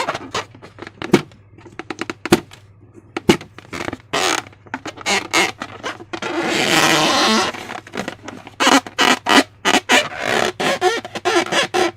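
Slime being squeezed and worked by hand: a run of short, irregular wet squelches and squishes, with one longer squelch lasting about a second and a half around the middle.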